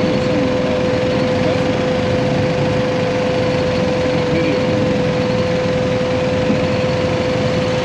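BMW GS Adventure motorcycle engine running steadily at low speed, with a constant hum that holds one pitch.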